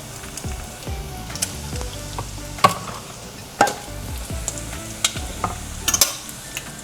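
A can of baked beans being worked open with a hand can opener: scraping and grinding noise with sharp metal clicks every second or so, under soft background music.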